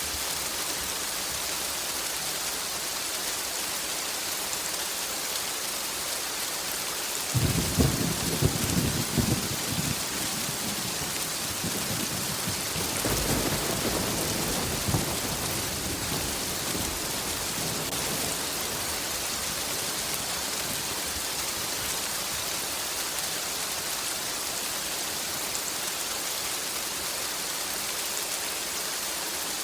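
Steady rain falling, with thunder: a sharp, crackling thunderclap about seven seconds in that lasts a couple of seconds, then a longer rolling rumble a few seconds later that fades out.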